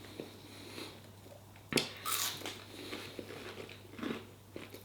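A person biting and chewing a mouthful of chicken and bird's eye chilli, with a sharp click just under two seconds in.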